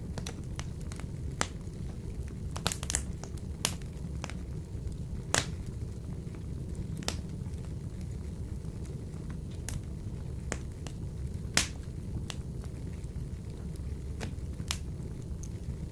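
Wood fire burning in a wood-burning stove, with a steady low rumble and irregular sharp crackles and pops. The loudest pops come about five seconds in and near twelve seconds.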